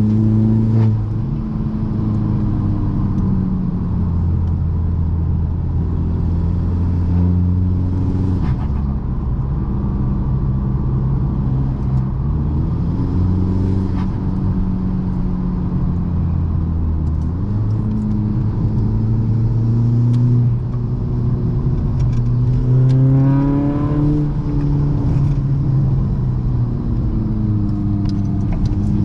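Tuned VW 2.0 TDI common-rail four-cylinder diesel with an upgraded turbo and a custom stainless exhaust, driving along. The engine note holds steady for stretches and rises and falls with throttle and gear changes. About three-quarters of the way through it climbs hard under acceleration, then drops back near the end.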